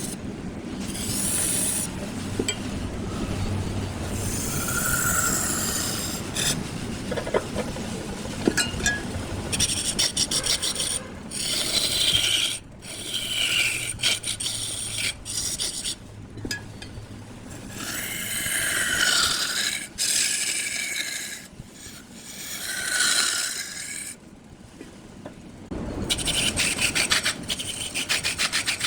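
Wood being scraped and cut on a spinning lathe: a rasping, hissing noise whose texture and loudness change abruptly several times.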